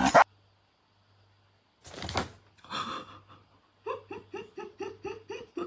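High-pitched laughter in quick, even bursts, about four or five a second, starting partway through after a brief near-silent pause and a couple of breathy sounds.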